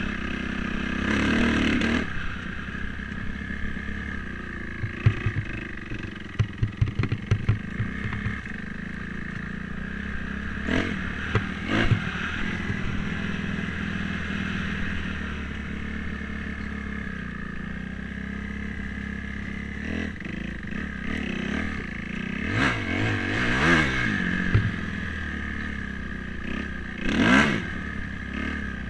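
Dirt bike engine running steadily, revving up and back down a few times near the end. There is a spell of rapid clattering knocks about five to eight seconds in.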